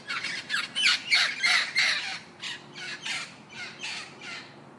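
A parrot squawking: a rapid series of short, harsh calls, about three a second, fading near the end.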